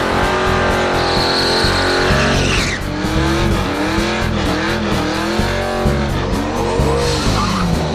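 Drag-racing muscle car engine revving up and down repeatedly, with a high tyre squeal between about one and two and a half seconds in, the squeal sliding down in pitch as it ends. A music track with a steady beat plays underneath.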